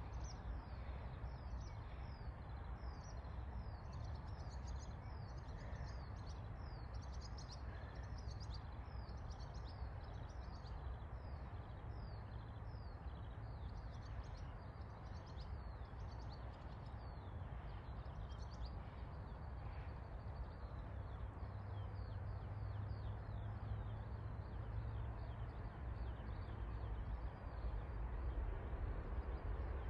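A songbird singing a long run of quick, high, downward-sliding notes, which thins out after about twenty seconds. Beneath it is a steady low rumble that grows louder near the end.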